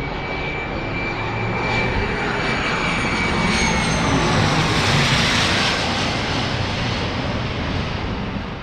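Business jet's engines passing close by on the runway after landing: a loud steady rush with a high whine, swelling to a peak about five seconds in and then fading away.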